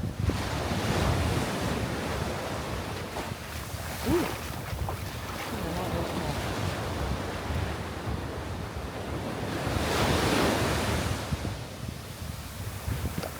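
Surf washing onto a sandy beach, with wind buffeting the microphone in a low rumble. A wave breaks and washes up about ten seconds in, the loudest moment.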